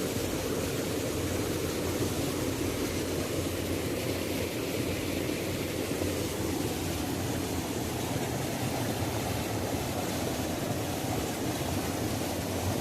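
Waterfall: a steady, unbroken rush of falling water, heaviest in the low and middle range.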